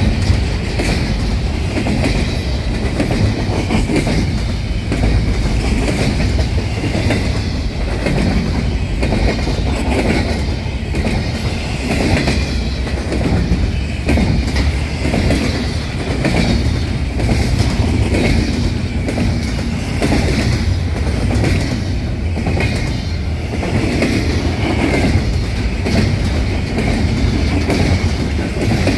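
Double-stack container well cars of a freight train rolling past at close range: a steady low rumble with wheels clacking over rail joints. A thin high wheel squeal comes and goes over it.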